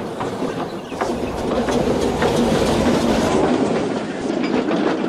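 A train running on rails, its wheels clacking over the rail joints against a steady rumble, getting louder over the first second.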